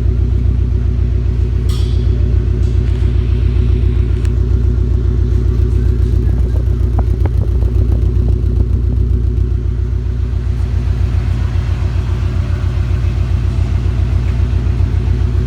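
Subaru WRX STI's turbocharged flat-four boxer engine idling steadily through a catless turbo-back exhaust fitted with a single small muffler and a slightly muffled tip, with its low, even pulsing exhaust note. Slightly quieter from about ten seconds in.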